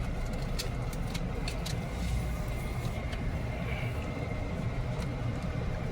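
Car cabin noise while driving: a steady low rumble of engine and road, with a few faint clicks in the first two seconds.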